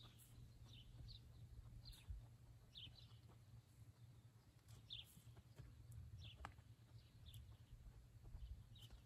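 Near silence: faint outdoor ambience with a low rumble and small birds chirping briefly, high and short, every second or so.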